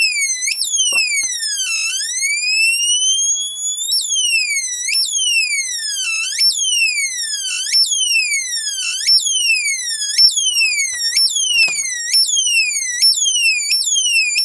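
Transistor bird-chirp generator driven by a second slow multivibrator, giving a string of electronic chirps that each fall sharply in pitch. The driver potentiometer is being turned, which changes the chirping: one long swoop down and back up about two seconds in, then a steady run of about two chirps a second.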